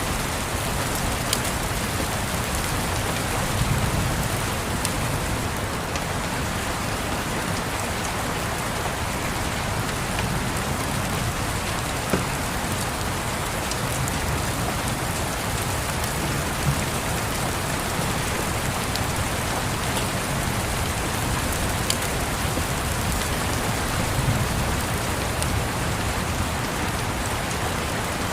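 Steady rain on a surface, with scattered small clicks and a few louder sharp pops, the crackle of a fireplace. Soft low rumbles of distant thunder swell and fade about four seconds in and again near the end.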